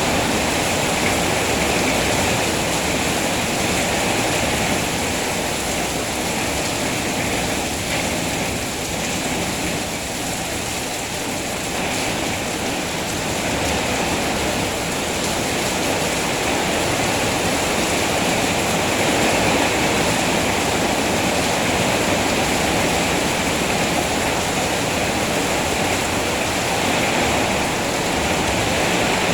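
Steady rain falling, an even dense hiss with no single drops or other sounds standing out.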